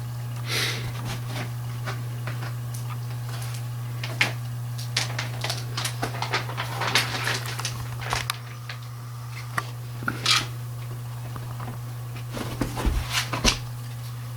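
A dog gnawing on a rawhide bone: irregular clicks and cracks, bunched at times, over a steady low hum.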